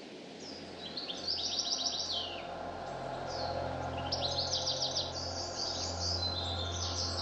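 Songbird singing: two fast, high trilled phrases, the first about a second in and the second past the middle, with short chirps between them. A low steady hum sits underneath.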